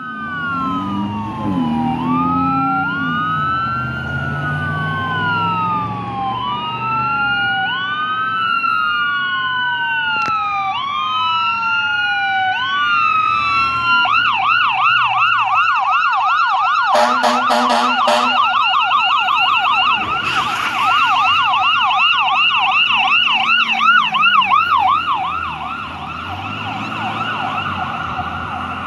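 Fire engine's electronic siren on a slow rising-and-falling wail, switching about halfway through to a fast yelp. A few seconds after the switch, a rapid series of short air horn blasts sounds over it, with the truck's diesel engine rumbling underneath.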